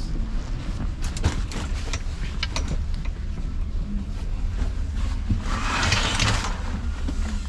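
Low, steady rumble of a train with scattered clicks and knocks, and a short rush of hiss about six seconds in.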